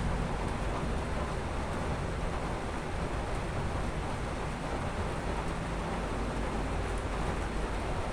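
Thunderstorm ambience: a steady wash of noise with a deep low rumble underneath, fairly even throughout.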